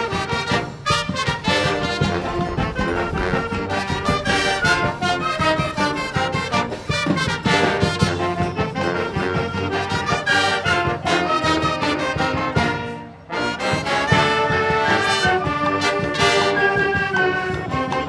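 Wind band playing an arranged forró tune, trumpets and trombones leading over a steady percussion beat, with a brief break about thirteen seconds in before the full band comes back in.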